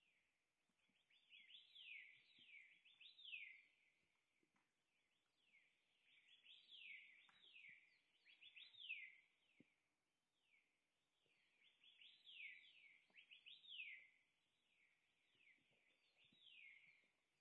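Faint bird calls: four bursts of quick, high notes, each sliding downward, several a second, with short pauses between the bursts.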